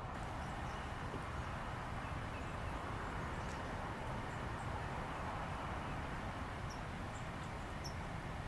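Steady outdoor background noise, with a few faint, short, high bird chirps in the second half.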